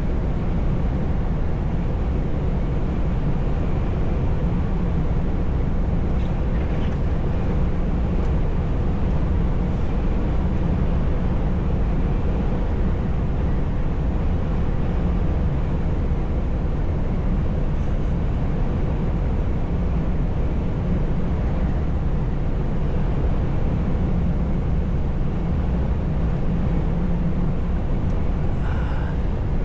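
Steady low drone of a truck on the move, heard from inside the cab: the diesel engine running at an even pace under the road noise.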